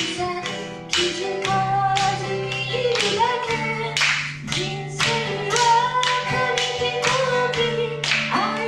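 Live pop song: a singing voice with instrumental accompaniment, over a steady beat of sharp strokes about twice a second.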